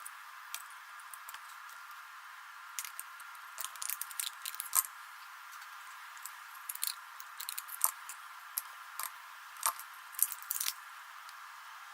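Scattered small clicks and snips of hand work with small tools and parts, irregular and sharp, the loudest a little under five seconds in and again about eight and ten seconds in, over a faint steady hiss.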